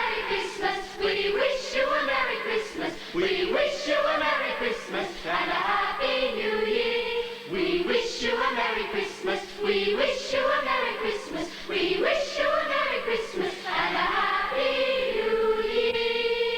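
A children's choir singing a song with musical accompaniment, the melody moving from phrase to phrase and settling on one long held note near the end.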